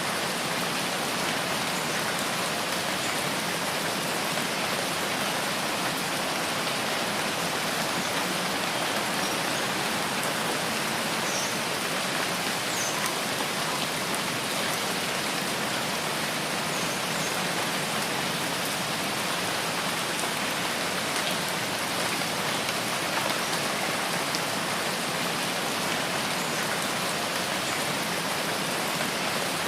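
Steady rain falling in a rainforest, an even, unbroken hiss of rain, with a few faint high chirps about halfway through.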